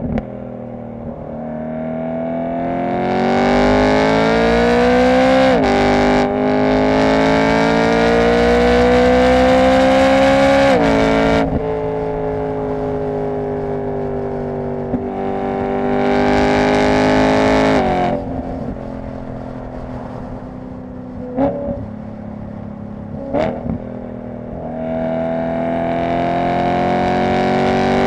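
BMW E90 M3's S65 V8 through an aftermarket exhaust, pulling through the gears: the engine note climbs, drops at an upshift about five seconds in and again around eleven seconds, then holds a steady cruise. Later come two short sharp revs about 21 and 23 seconds in before it pulls and climbs again near the end.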